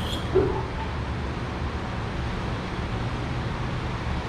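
Jeep Wrangler's 4.0-litre inline-six engine running steadily, with a short thump about half a second in.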